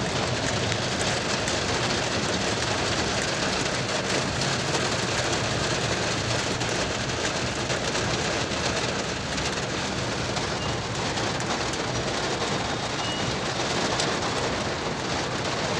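Rain falling steadily on a car while it drives, an even hiss of drops over the low rumble of the moving car.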